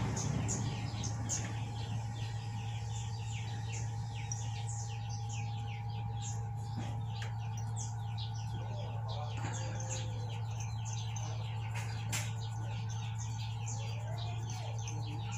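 Small birds chirping rapidly and continuously, over a steady low hum.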